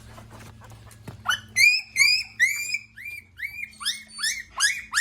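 A newborn puppy, about two weeks old with its eyes still shut, crying in a string of high squeals that rise in pitch and level off, about three a second, starting a little over a second in. A puppy this young cries like this when it is picked up.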